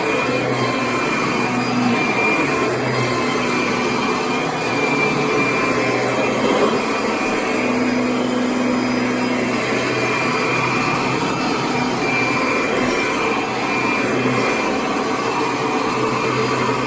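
Kirby Sentria upright vacuum cleaner running steadily, a loud whir with a hum that swells and fades every few seconds.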